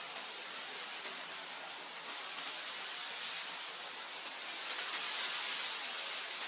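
Wind blowing over grassland: a steady, airy hiss that swells a little about five seconds in.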